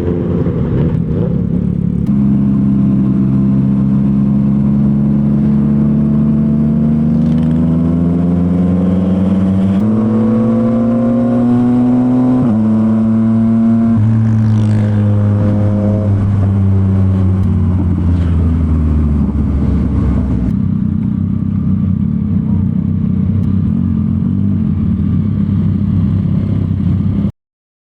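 Yamaha MT-09's three-cylinder engine breathing through a Revoc SP full aftermarket exhaust, pulling under throttle with a rising pitch. The pitch jumps in steps through the middle as gears change, then the engine eases off into a lower, uneven rumble that cuts off suddenly near the end.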